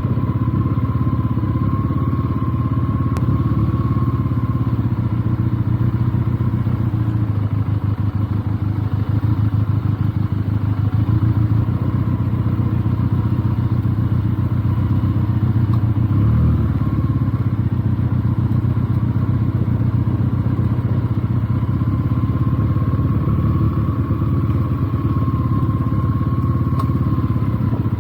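Benelli TNT 300's parallel-twin engine running steadily at low revs while the motorcycle is ridden, with a brief blip in the engine note about halfway through.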